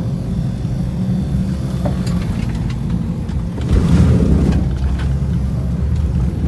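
Suzuki Escudo SUV's engine running steadily as it drives off-road, with a brief louder surge about four seconds in.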